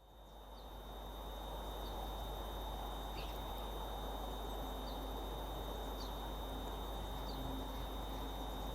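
Steady outdoor background noise with a constant low electrical hum and a thin high whine, which is interference picked up from the overhead wires. A small bird gives short, high falling chirps about once a second.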